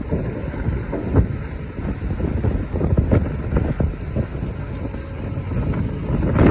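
Excavator engine running with a steady low rumble while its bucket knocks and scrapes on rock in several short, sharp strokes, the loudest near the end.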